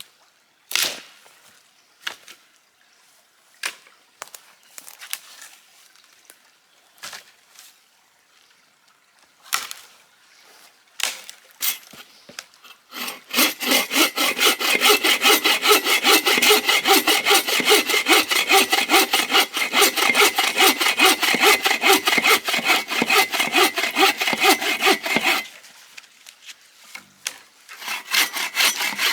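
A few scattered sharp knocks and cracks, then a hand saw cutting through wood with steady, rapid back-and-forth strokes for about twelve seconds. It stops, then starts sawing again near the end.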